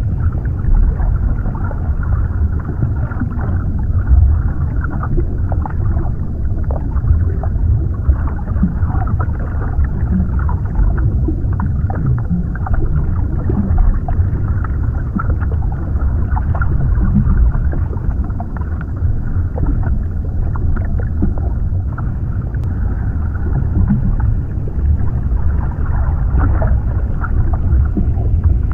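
Underwater ambience: a steady, muffled low rumble with scattered small bubbling pops and almost no high end.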